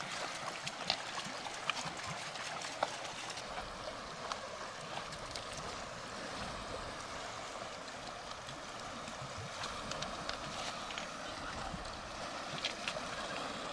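Fast-moving stream rushing over rocks in a steady, even wash of water noise.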